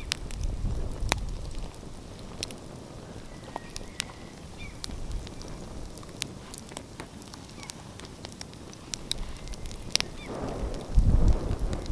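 Open wood fire crackling, with frequent sharp pops and snaps. A low rushing rumble of ocean surf swells near the start and builds loudly again near the end.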